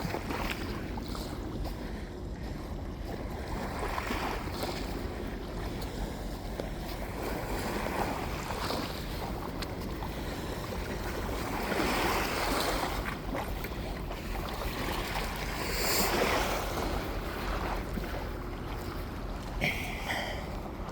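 Waves washing onto a beach, swelling up about every four seconds, over a steady low rumble of wind on the microphone.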